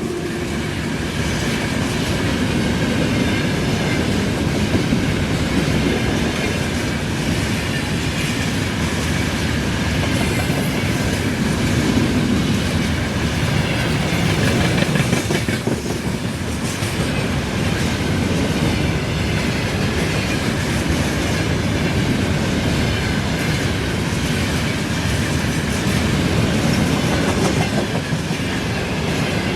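A train's cars rolling past close by, with a steady clickety-clack of wheels over the rail joints and no pause.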